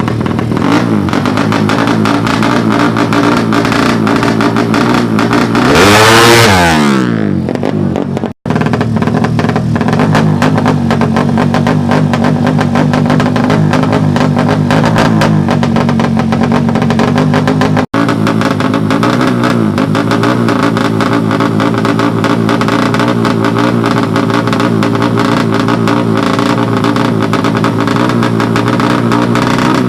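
Four-stroke underbone drag bike engines running at steady revs, with one bike's engine note sweeping steeply down in pitch about six seconds in. The sound cuts out briefly twice.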